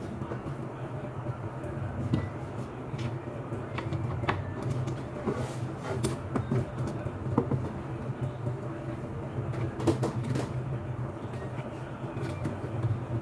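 Scattered light clicks and knocks of small hard parts being handled as a TV is screwed together, over a steady low hum.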